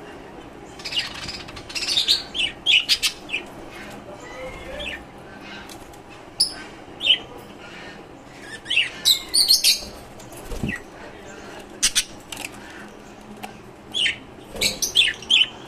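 Caged lovebirds and finches chirping: short, sharp high calls coming in bunches of several at a time, with short gaps between the bunches.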